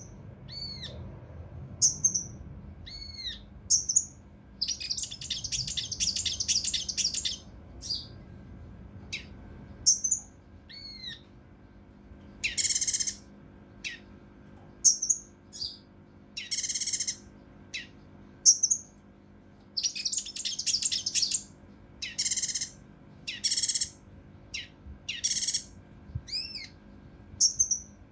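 A kinoi (cucak rante mas) songbird calling: short, clear, arched whistled notes alternate with harsh, raspy bursts repeated every second or two.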